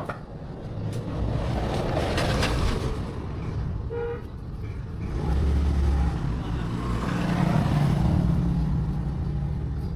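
Road traffic passing by: two vehicles swell up and fade away over a low rumble, with a short horn beep about four seconds in.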